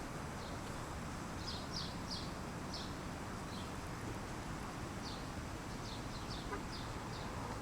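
Small birds chirping, a scatter of short high chirps over a steady rushing background noise.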